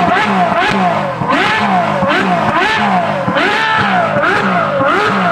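Ferrari F12 Berlinetta's naturally aspirated V12 being blipped over and over, its pitch rising and falling about three times every two seconds. The sound is a high-pitched exhaust note through a free-flow F1-style X-pipe and valved titanium rear section, with factory downpipes.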